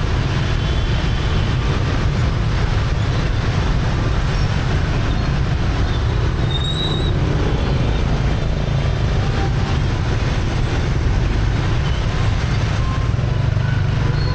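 Steady traffic noise heard from a moving motorbike: a continuous low drone of engines and road noise. A brief high tone sounds about seven seconds in.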